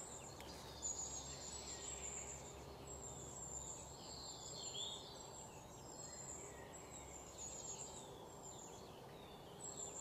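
Faint forest ambience: small birds calling with thin, high-pitched notes repeated about once a second, a few lower chirps about halfway through, over a faint steady background hush.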